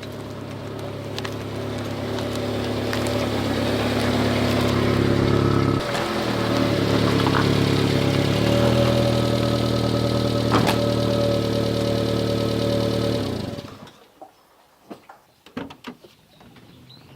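Subaru Sambar kei truck's engine running, growing louder up to a brief dip and shift in pitch about six seconds in, then steady until it cuts off suddenly near the end, leaving a few faint clicks.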